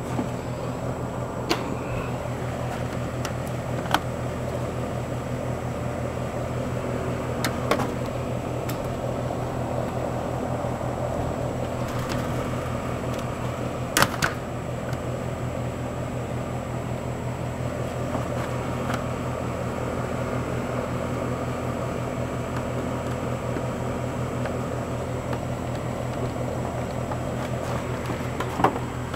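Steady low mechanical hum of a running motor, with a few sharp clicks and knocks scattered through, the loudest about halfway through.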